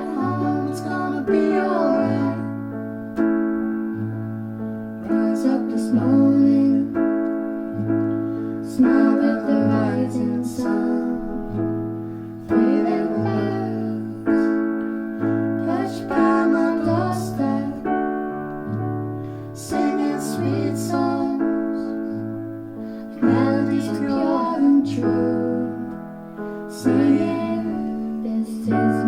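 Keyboard music: electric piano chords over a steady, repeating bass note, with a melody line moving above.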